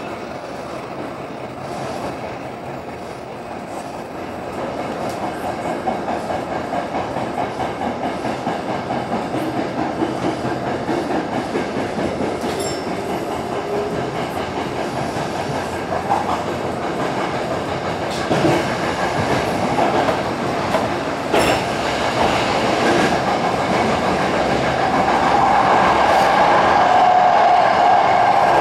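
Toyo Rapid Railway 2000 series electric train running through a subway tunnel, heard from inside the leading car: a steady rumble of wheels on rail with a rhythmic clatter, growing louder as it gathers speed. A few sharp clacks come in the second half, and a steady whine builds near the end.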